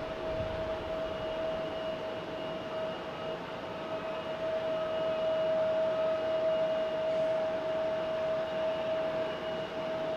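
Jet airliner engines running at low thrust: a steady whine over an even rush of noise, swelling slightly in the middle.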